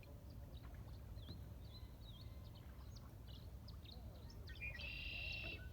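Red-winged blackbird calling: scattered short chirps, then near the end one song ending in a buzzy trill about a second long. A steady low rumble runs underneath.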